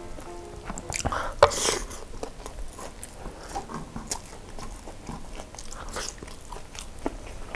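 Close-up mouth sounds of a person eating sauce-covered food by hand: chewing, wet smacks and clicks, with a louder crunch about a second and a half in.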